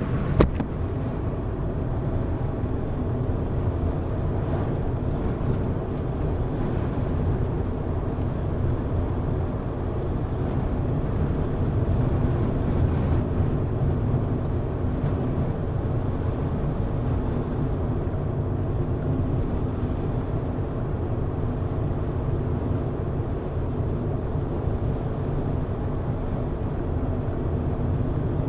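Car driving along at a steady pace: continuous low engine and tyre road noise, with a short sharp click about half a second in.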